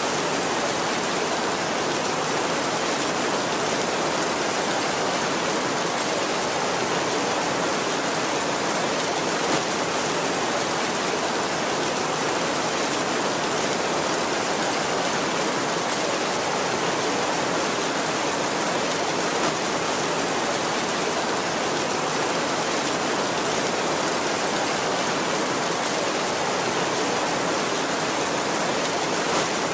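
Heavy rain falling steadily on a tin roof, an even hiss with no let-up.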